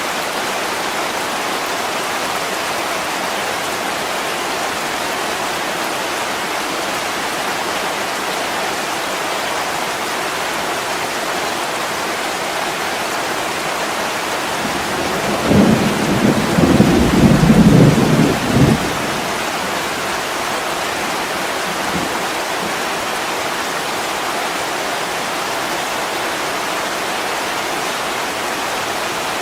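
Heavy rain falling steadily on a window, with a low roll of thunder about halfway through that lasts roughly three seconds and is louder than the rain.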